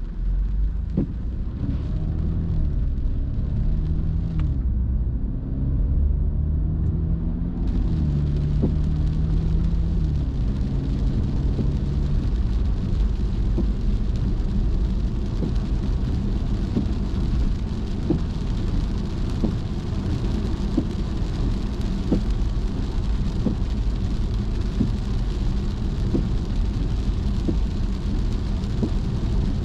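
Car driving on wet roads in the rain: steady road and tyre noise with rain on the car. For about the first twelve seconds a low hum steps up and down in pitch, then stops.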